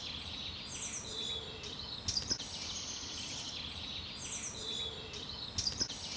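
Birdsong: dense high chirping throughout, with one bird's phrase of quick falling notes repeating about every three and a half seconds, and a couple of faint ticks.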